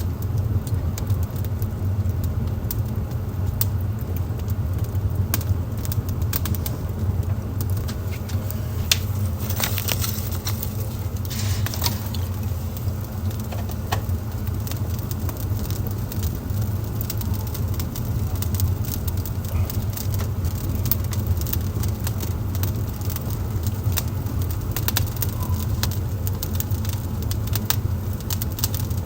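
Wood fire burning in a fireplace, crackling with scattered sharp pops, a cluster of them about ten seconds in, over a steady low rumble.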